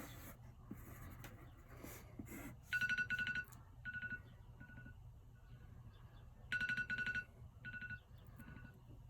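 Electronic timer alarm beeping in clusters of quick, high beeps with single beeps between them, signalling that a 10-second drawing countdown has run out. In the first couple of seconds, scratchy strokes of drawing on paper.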